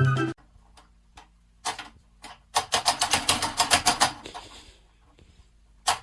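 A series of sharp taps: a few spaced ones at first, then a quick run of about eight a second, and a few more near the end.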